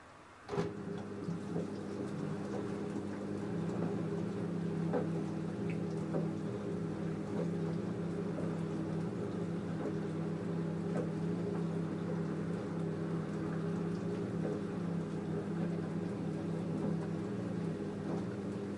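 LG F10A8HDS5 front-loading washing machine running mid-wash: its direct-drive motor hums steadily as the drum turns, with water and laundry sloshing and light ticks. The hum starts abruptly about half a second in.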